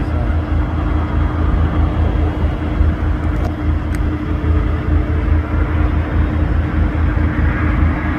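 Steady low rumble of an idling diesel truck engine, pulsing quickly, with a constant hum over it.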